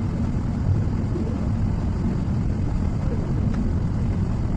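Steady low rumble of engine and airflow noise inside an airliner cabin in flight.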